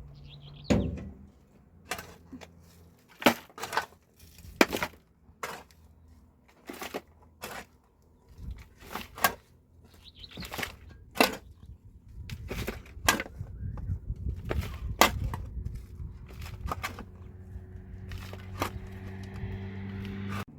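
A series of sharp, irregular knocks and cracks, roughly one or two a second. A low steady hum comes in near the end.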